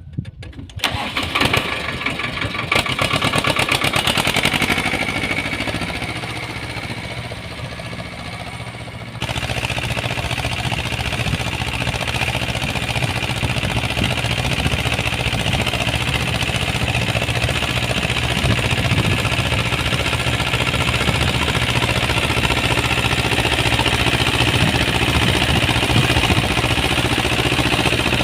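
Uralets mini tractor engine starting abruptly and then running steadily, with a rotary tiller hitched on. About nine seconds in the sound changes suddenly and settles into a fuller, steady running for the rest of the time.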